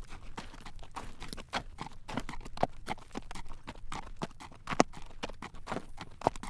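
Horse's hooves clip-clopping on a road at a walk as it draws a carriage: sharp clacks several times a second in an uneven rhythm.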